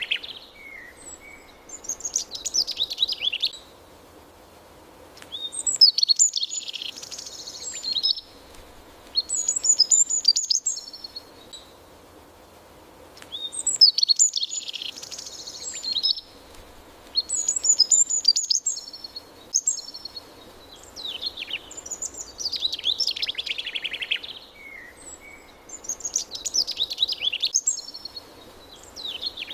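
Songbirds singing in short, high-pitched chirping phrases that come every couple of seconds, over a faint steady background hiss.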